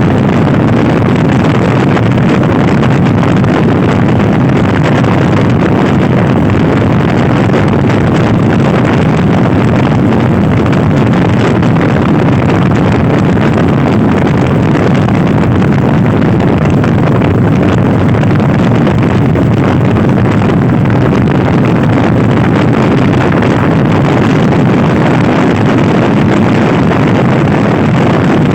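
Loud, steady wind rush buffeting the microphone of a rider on a Honda Scoopy-i scooter at speed.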